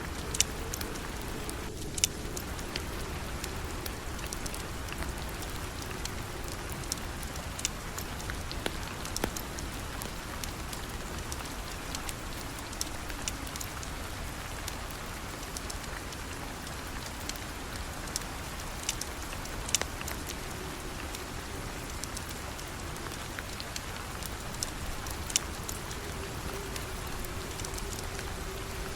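Steady rain falling, an even hiss with scattered sharp clicks and pops throughout.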